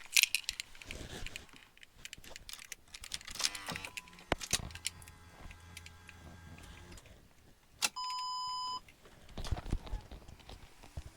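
Scattered light clicks and knocks of things being handled, then a single electronic beep, one steady tone just under a second long, about eight seconds in.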